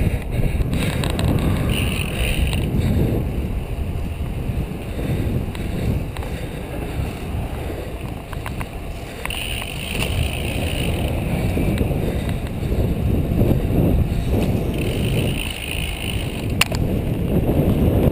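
Wind buffeting the microphone of a camera riding on a racing bicycle in a moving pack: a rough, uneven low rumble mixed with tyre noise on the road. A couple of sharp clicks come about halfway through and near the end.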